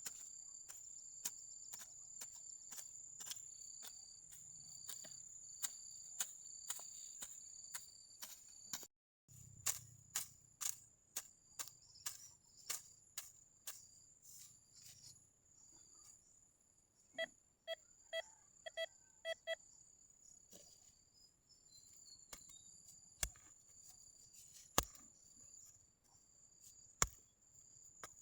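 Crickets and other insects trilling steadily, with scattered sharp clicks and knocks throughout. About two thirds of the way in, a metal detector sounds five short beeps in quick succession.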